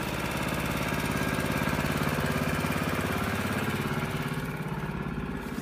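An engine running steadily, growing louder over the first couple of seconds and easing off near the end.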